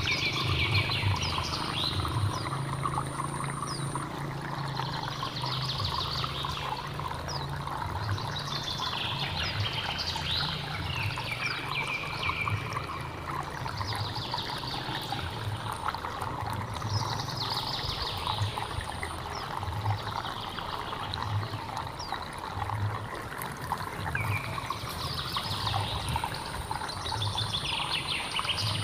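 Running water in a hill stream, a steady rushing and trickling, with a bird singing short sweeping phrases every few seconds over it. A thin high steady tone comes and goes.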